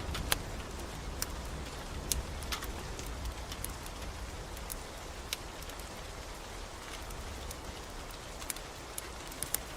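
Steady rain hiss with irregular sharp pops and crackles of a burning wood fire. A low rumble of thunder dies away over the first second or two.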